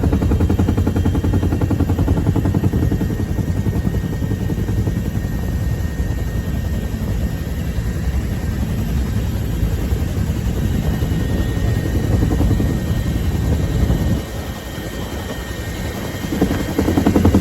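UH-1H Huey helicopter heard from on board: the steady rapid chop of its two-bladed main rotor over the whine of its turbine engine. The sound dips briefly about fourteen seconds in, then returns to full strength.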